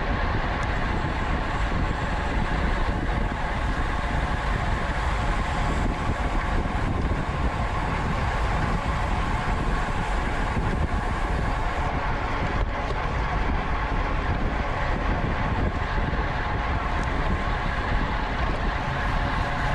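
Steady wind rushing over the microphone of a camera on a racing bicycle at speed.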